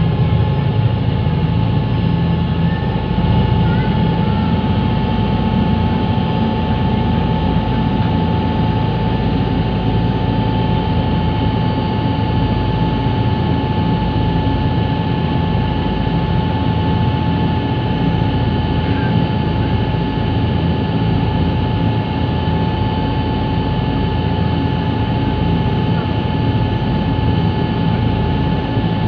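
River Class catamaran ferry running under way: a steady engine drone, a deep rumble with a constant whine over it that holds unchanged throughout.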